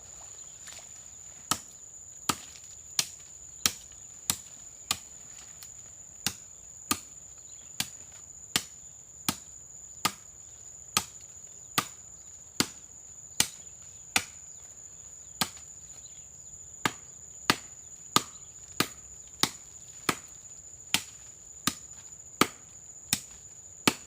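Steady rhythm of chopping blows into a coconut palm trunk as it is being felled, about three blows every two seconds, starting a second and a half in. A steady high-pitched insect buzz runs behind it.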